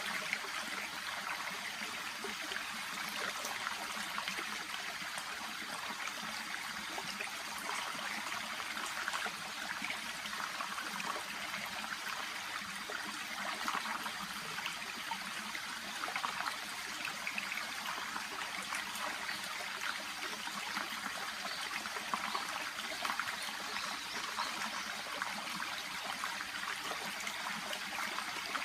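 Shallow brook babbling and trickling steadily over its bed, a continuous bright water noise with small splashing flickers.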